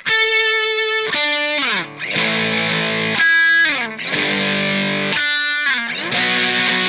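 Electric guitar played through a Fender Santa Ana Overdrive pedal. It plays overdriven chords and held notes, several of them sliding down in pitch.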